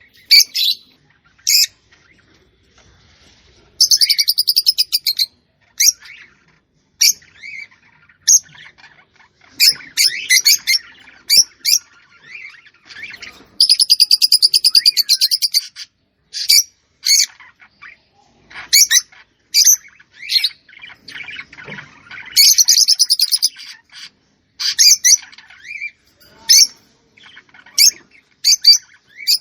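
Bird chirping: many short, high chirps, and three fast pulsing trills, each about a second and a half long, roughly four, fourteen and twenty-two seconds in.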